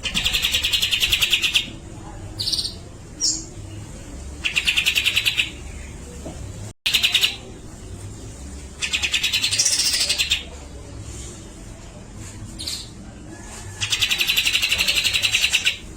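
Cucak jenggot (brown-cheeked bulbul) singing in repeated harsh, rapid rattling bursts of about one to two seconds each, four times, with a few short single notes in between.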